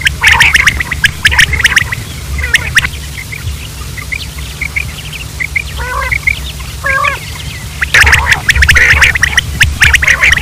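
Flock of quail calling: dense, rapid overlapping chatter for the first few seconds and again from about eight seconds in, with sparser short chirps and a few falling calls in between. A steady low hum runs underneath.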